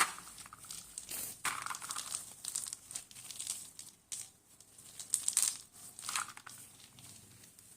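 Irregular crinkling and crumpling, a string of short rustles with a few louder bursts.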